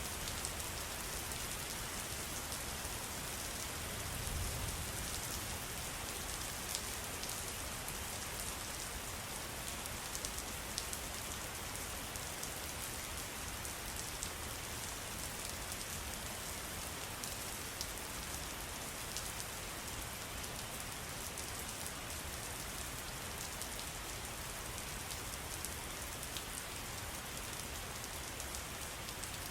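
Steady rain falling on surfaces: an even hiss dotted with many small drop ticks, with a brief low rumble about four seconds in.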